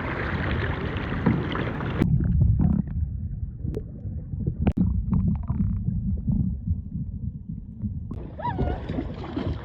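Sea kayaking out on the water: a rush of wind and water for about two seconds, then, after a cut, low wind buffeting on the microphone with a few sharp knocks. A different, brighter stretch comes in near the end.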